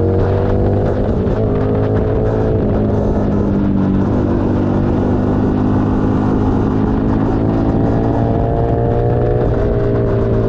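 Keeway SCR 250 V-twin engine running through a Racefit free-flow exhaust under way, its revs climbing steadily and dropping back sharply a little over a second in, at about two and a half seconds and again near the end.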